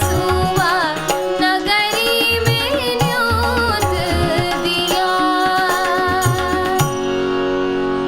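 A woman singing a Kumauni mangal geet, an ornamented, wavering melody over low hand-drum beats. About seven seconds in, the voice and drum stop and a held instrumental chord rings on.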